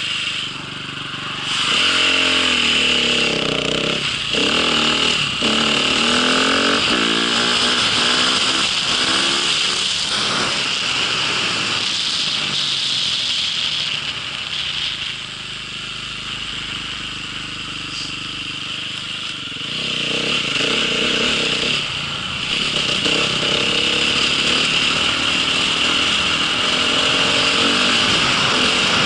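A small vehicle engine under way, revving up and down several times. It eases off to a lower, quieter run for a few seconds around the middle, then picks up again.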